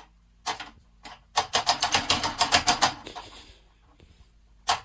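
A rapid run of sharp taps or clicks, about eight a second for a second and a half, with single taps before it and near the end.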